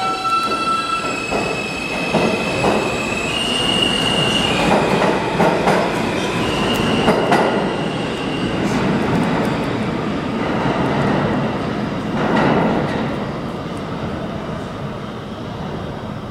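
R160A New York subway train pulling out, its Alstom propulsion whine stepping up in pitch in a series of tones over the first several seconds. Steel wheels clatter and squeal on the rails, and the noise eases off near the end as the train leaves.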